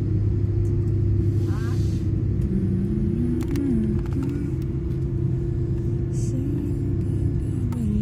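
Jet airliner's engine noise heard inside the cabin: a steady low rumble with a constant hum, as the plane waits or taxis before takeoff. A faint voice rises and falls over it from a few seconds in.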